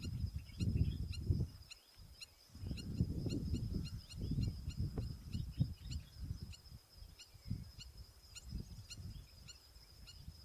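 Shore and marsh birds calling: short high chirps repeating about three times a second over a steady high trill, with a low gusty rumble beneath that is strongest in the first half.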